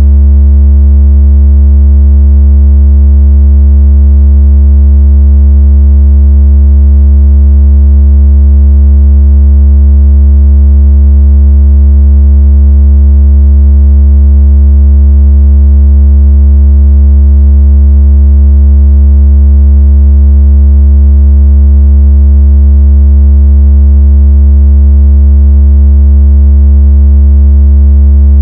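Very loud, steady, low-pitched electronic tone with faint overtones, unchanging throughout: a synthesized bass tone of the kind played to shake water out of a phone speaker.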